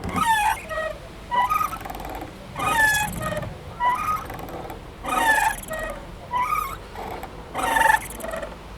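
Playground swing squeaking as it goes back and forth: a short squeal that falls in pitch, repeating evenly about every second and a quarter.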